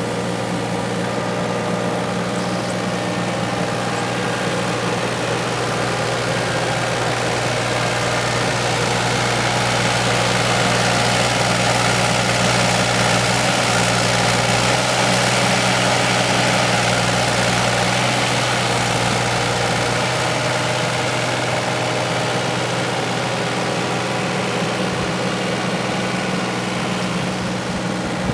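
Heavy equipment engine running steadily, a little louder midway.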